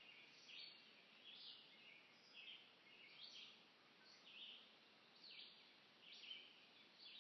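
Faint bird chirps repeating about once a second over a low steady hiss.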